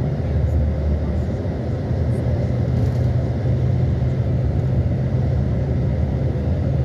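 A steady low rumble of a running motor vehicle, its pitch shifting slightly about a second and a half in.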